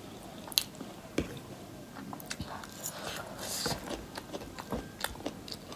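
Close-up chewing and mouth sounds of a person eating, with scattered small clicks and smacks and a couple of short breathy rushes.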